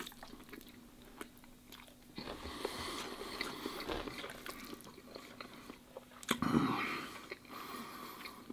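Close-up eating sounds of a man chewing a mouthful of spicy stir-fried noodles, with small clicks of wooden chopsticks and a louder stretch about six and a half seconds in.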